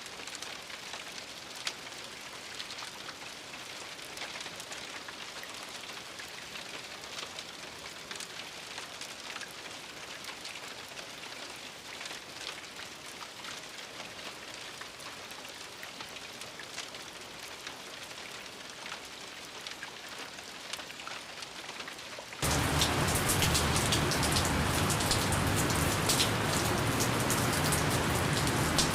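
Steady light rain, a soft patter of drops. About two-thirds of the way through it cuts abruptly to a much louder, fuller rain.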